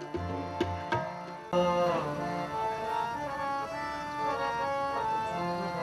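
Instrumental passage of Sikh kirtan between sung lines: tabla strokes under sustained melodic notes. The sound changes abruptly about a second and a half in, then the sustained melody carries on.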